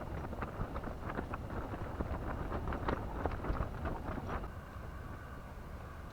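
Wind buffeting the microphone with a steady low rumble, overlaid by a run of small clicks and taps that stop about four and a half seconds in.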